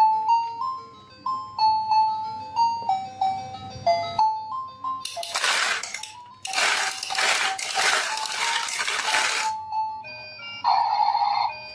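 Tinkly background music with a simple stepping melody. About five seconds in, a dense rattling clatter takes over for several seconds: marbles running down a wooden marble run.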